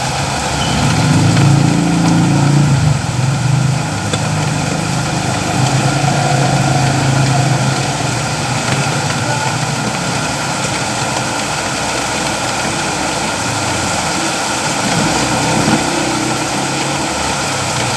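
Steady rain falling, a dense even hiss, with a low hum underneath that is strongest in the first half and swells again near the end.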